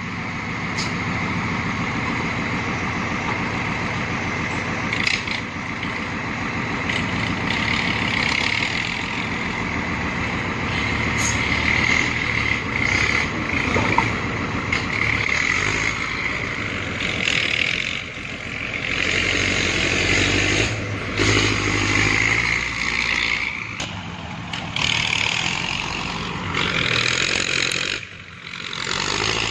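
Diesel engine of a six-wheel dump truck stuck in sand, running continuously with its level rising and falling as the truck tries to drive free.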